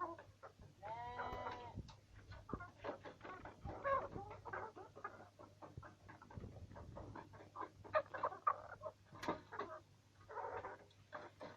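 Chickens clucking, with one clear drawn-out call about a second in, over many quick ticks and taps of beaks pecking at feed.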